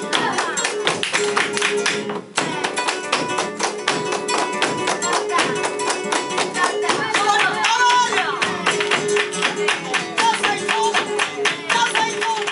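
Live flamenco soleá por bulerías: Spanish guitar and a wavering sung line over dense, rapid percussive strikes. The music drops out briefly about two seconds in, then resumes.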